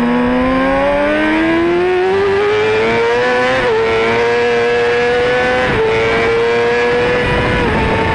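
Yamaha R6 inline-four sport bike engine heard from on board, pulling hard with its pitch climbing steadily over the first few seconds, then running near the top of its rev range with short dips in pitch about 4 and 6 seconds in and again near the end, over a steady rush of wind.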